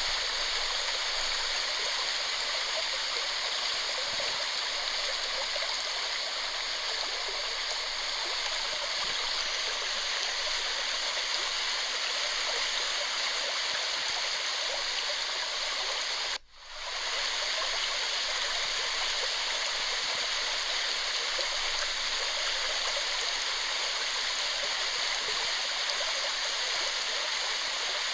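Waterfall with a steady rushing of falling water. About two-thirds of the way through, the sound cuts out for a moment and fades straight back in.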